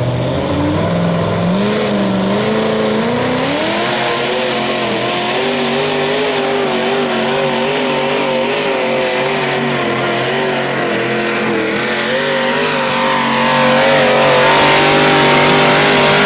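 Mini modified pulling garden tractor's engine under full load during a pull. It revs up over the first few seconds, then holds at high revs with a slight waver, growing louder near the end.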